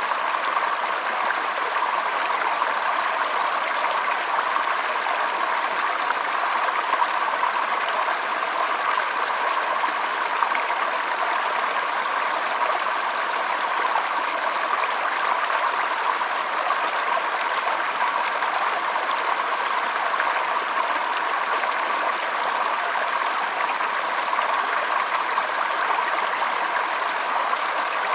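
Shallow stream trickling and flowing, a steady unbroken babble of water.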